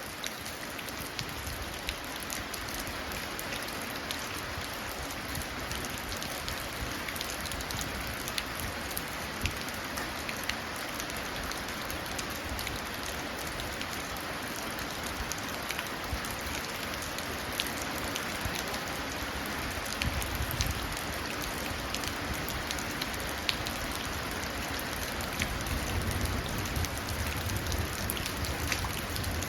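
Steady rain falling and running into puddles, with scattered distinct drop splashes. A low rumble of distant thunder starts to build near the end.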